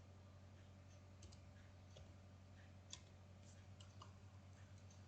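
A few faint, irregular computer mouse clicks over a low steady hum, the clearest about three seconds in.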